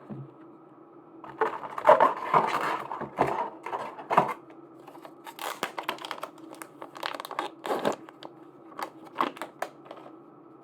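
Packaging being crinkled and torn open by hand. There is a dense stretch of crackling for about three seconds starting a second in, then scattered sharper rustles and crinkles, over a faint steady hum.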